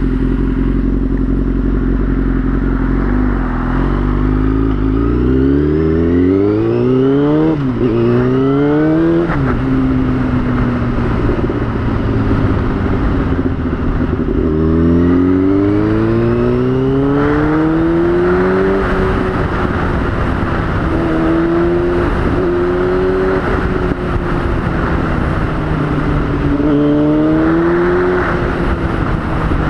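2003 Yamaha YZF-R6 inline-four engine under way. It revs up with quick upshifts about 8 and 9 seconds in, then steadies. It revs up again from about 14 to 18 seconds and settles into a steady cruise with small rises and dips in revs.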